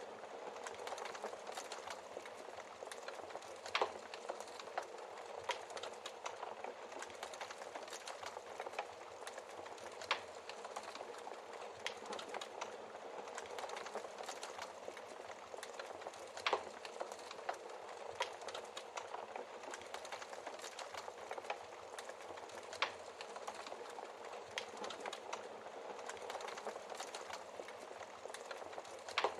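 Fire crackling in a fireplace: a steady fine crackle, with a sharper pop about every six seconds.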